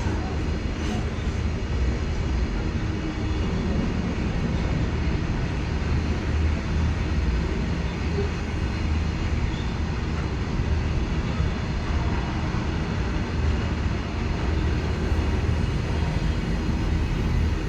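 Moving train running with a steady low rumble and rushing noise.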